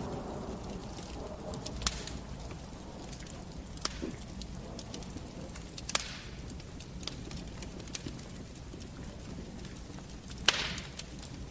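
Wood fire burning in a fireplace: a steady low crackle with sharp pops every few seconds. The loudest pops, about six seconds in and near the end, each trail off into a brief hiss.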